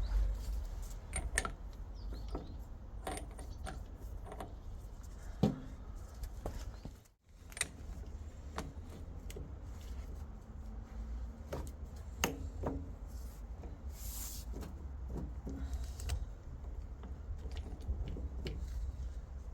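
Scattered metallic clicks and knocks of gearbox parts and hand tools being handled on a bench, over a steady low hum.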